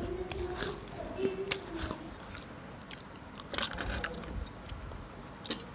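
Close-miked biting and crunchy chewing, the mouth right at a clip-on microphone: a string of sharp crunches and clicks.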